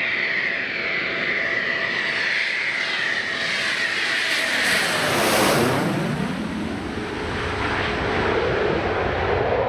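A Eurofighter Typhoon jet fighter's twin EJ200 turbofan engines as it flies past. A high whine falls slowly in pitch, and the noise is loudest about five and a half seconds in, then drops to a lower rumble.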